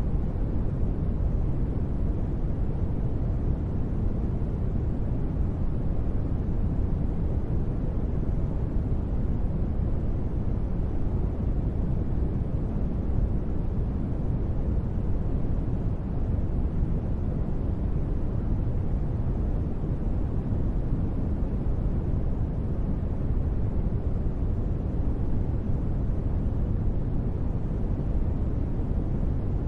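Steady, deep rumbling noise of a space-ambience soundscape, heaviest in the bass and unchanging.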